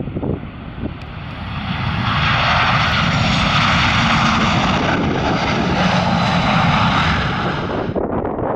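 Airliner passing close by on landing approach: its engine noise swells about two seconds in, holds, then falls away sharply near the end. Wind rumbles on the microphone underneath.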